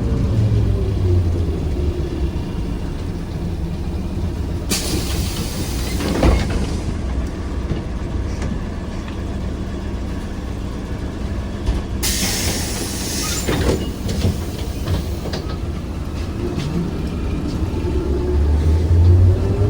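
Trolleybus running with its electric traction motor whining down in pitch as it slows, then two loud hisses of released compressed air, then the motor whine rising again as it pulls away.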